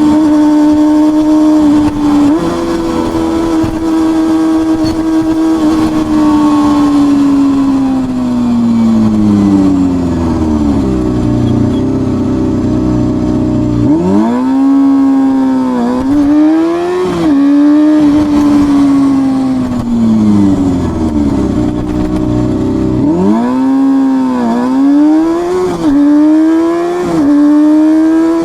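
Exhaust of a Honda CBR250RR MC22's 250 cc inline-four, running at high revs. It holds a steady high note, winds down as the revs drop about a third of the way in, then climbs again in quick rises broken by short dips, twice over.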